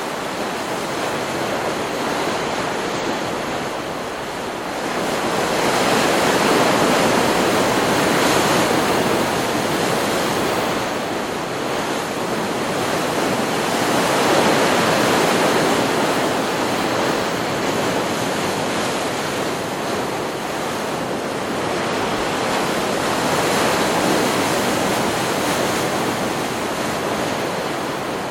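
Ocean surf from a stock beach recording: a steady wash of breaking waves that swells louder three times as sets roll in and break.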